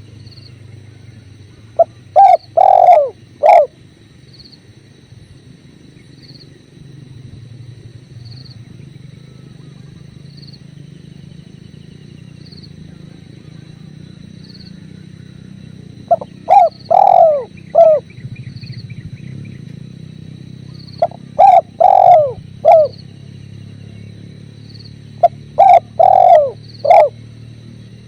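Spotted dove (tekukur) cooing: four phrases of several low, falling coo notes, spaced irregularly, over a steady low rush of flowing river water. A thin, steady high tone with a short chirp about every two seconds runs underneath.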